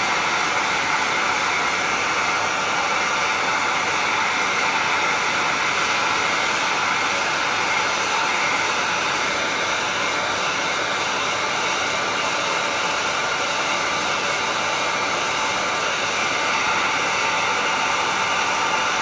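Electric heat gun running steadily: a loud, even blower rush with a faint steady whine.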